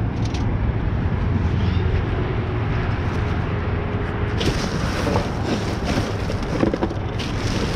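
Steady low rumble and hiss, like wind buffeting the microphone, with rustling and light knocks of items being handled in a dumpster starting about four seconds in.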